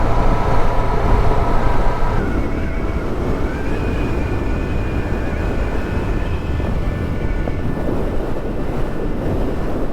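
Onboard riding noise from a Honda Deauville motorcycle on the move: a steady low rumble of wind buffeting and engine, with a faint steady whine over it.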